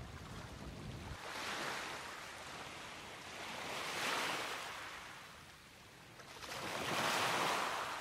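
Sea surf breaking and washing up a pebble beach: three swells of rushing hiss about every three seconds, the last one the loudest.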